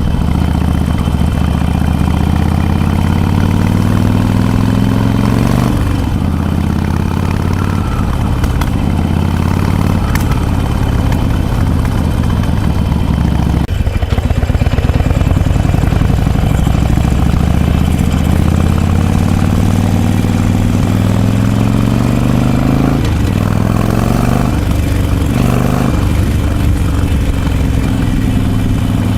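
Harley-Davidson Forty-Eight's air-cooled 1200 cc V-twin running through a Vance & Hines Short Shots full exhaust, revved up: the engine note climbs slowly over several seconds and drops back sharply, twice, then a few short blips of the throttle near the end.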